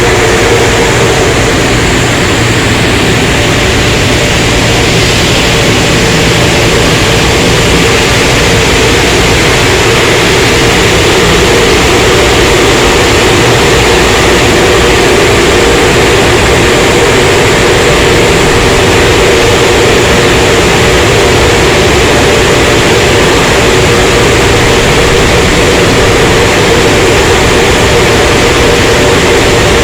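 Automatic car wash tunnel equipment running: a loud, steady rushing noise with a constant hum underneath.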